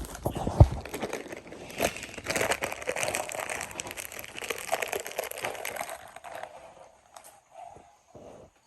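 Crisps being crunched and a crisp packet crinkling close to the microphone, a dense crackle that dies away about six seconds in.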